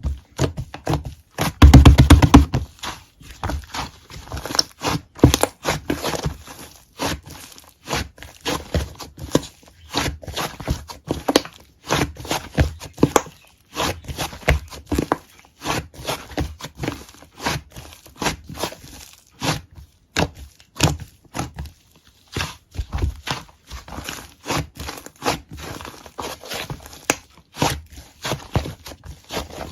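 Slime being squeezed and pressed by hand, making a dense, irregular run of sticky clicks and pops, with one louder thump about two seconds in.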